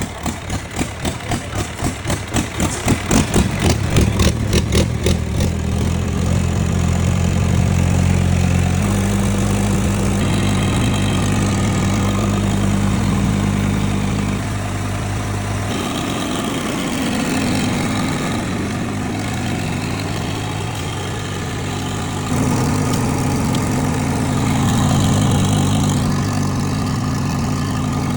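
Diesel generator set's engine just after starting, firing in heavy, even pulses for the first few seconds before settling into a steady run. About halfway through its note drops lower, and near the end it steps up a little louder.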